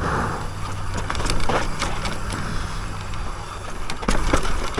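Mountain bike riding fast down a dirt trail: tyres rolling over dirt with sharp rattles and clicks from the bike, over a steady low rush of wind and motion noise.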